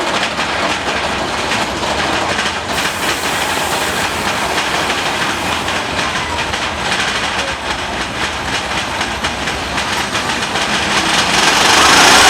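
Mine-train roller coaster cars running along the track: a steady clattering rattle of wheels on rails with rushing noise, growing louder near the end.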